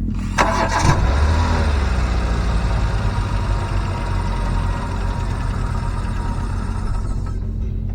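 A motor vehicle engine running with a steady low drone. A louder, noisier layer comes in suddenly about half a second in and fades out near the end.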